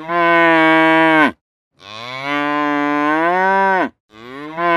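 Cattle mooing: three long, loud moos in a row, each about one and a half to two seconds, the pitch dropping off at the end of each. The last starts near the end.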